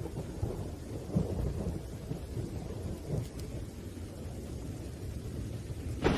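Thunderstorm: low, continuous rolling thunder rumbling over rain, with a sudden louder crack of thunder breaking in at the very end.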